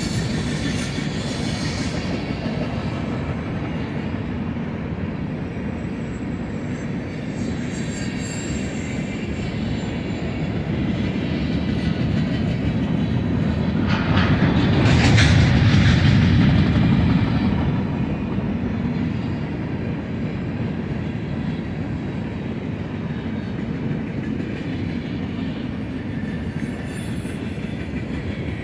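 Freight cars of a manifest train rolling past: a steady rumble and clatter of steel wheels on the rails. The sound swells louder about halfway through, with a brief high-pitched wheel squeal, then settles back to the steady rolling.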